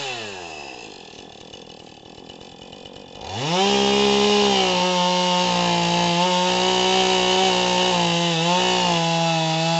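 Two-stroke chainsaw engine settling to a low running speed, then revved sharply a little after three seconds and held at high revs, with small dips in pitch.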